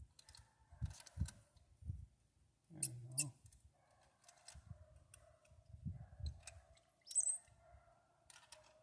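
Scattered light clicks and knocks of a wrench working on the engine's rocker arms during valve adjustment, with a short squeak about three seconds in.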